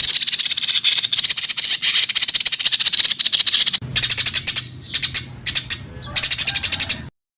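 Recorded songbird song: a long, very rapid, rattling trill, then several shorter trilled bursts, stopping abruptly near the end.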